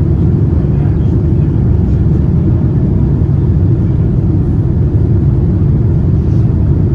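Steady low rumble of airliner cabin noise inside a Boeing 787-9 with GEnx engines, even in level throughout.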